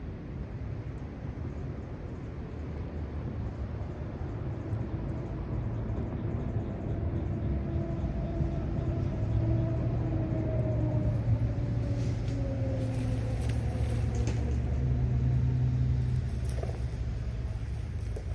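An engine running with a steady low hum, its pitch drifting slightly, growing louder toward the middle and easing off near the end, with a few faint clicks partway through.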